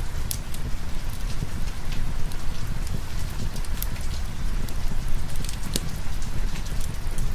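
Steady rain mixed with the scattered sharp crackles of a fireplace, over a continuous low rumble.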